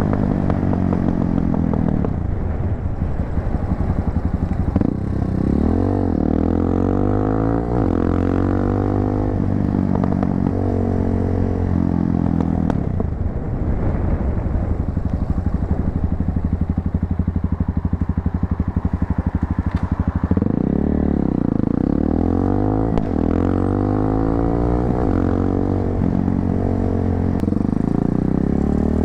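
A 250cc motorcycle engine with an aftermarket muffler pulls through the gears while riding. The exhaust note rises in pitch again and again, then drops back at each shift, with a steadier stretch of cruising in the middle.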